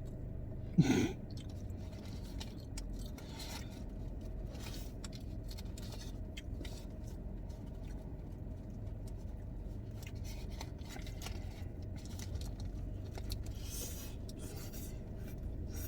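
A person chewing a cheeseburger, with scattered short crunches and rustles over a steady low hum. A short loud sound comes about a second in.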